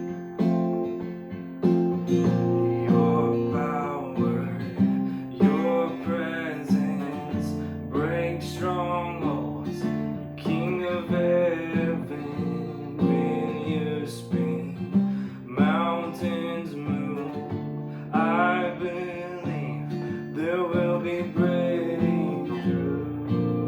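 Worship music led by strummed acoustic guitar, with a steady rhythm of strokes and a melody line above it.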